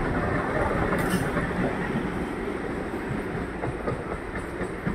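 Suburban EMU local train running over the rails as its last coach passes, the wheel-and-rail rumble fading gradually as it moves away.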